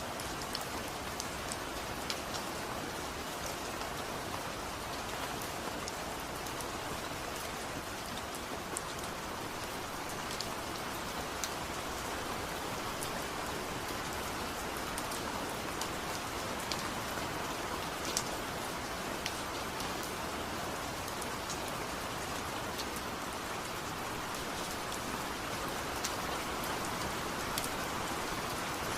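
Steady rain: an even hiss with scattered sharp taps of drops striking a surface.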